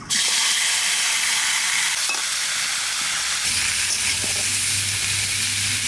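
Raw cubes of mankochu (giant taro) tipped into hot mustard oil in a wok, starting to sizzle all at once and then sizzling steadily as they are stirred with a spatula.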